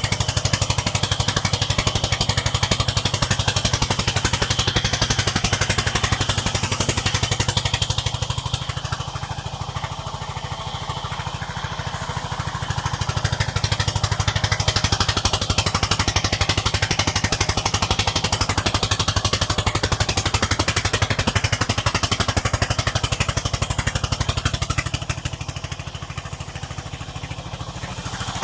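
Sawmill's engine running steadily with a fast, even pulsing and a low hum, its loudness dropping and rising again twice.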